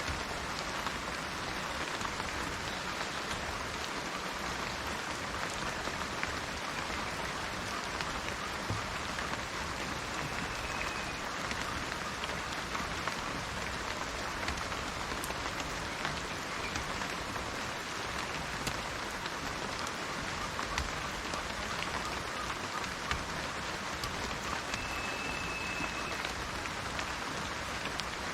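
Steady rain falling, an even hiss with many small drop ticks. Two faint short high notes sound through it, about a third of the way in and near the end.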